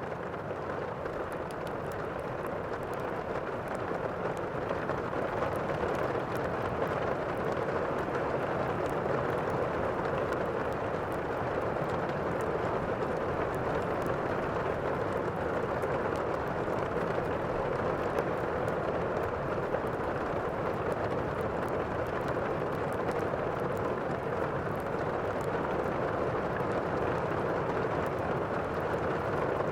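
Steady, even rushing of heavy rain, with faint scattered crackles from a fireplace on top.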